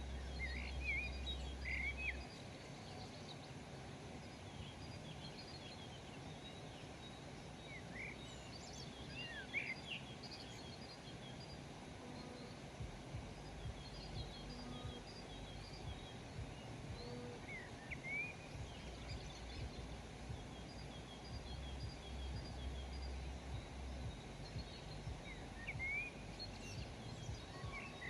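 Several small birds chirping and calling in short, scattered phrases over a steady outdoor hiss, with a low rumble at the start and again past the middle.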